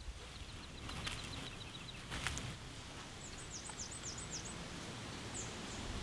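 Small woodland birds singing: a run of quick high chirps, then a short phrase of high, descending whistled notes about three seconds in. Two short sharp noises come about one and two seconds in, over a low steady rumble.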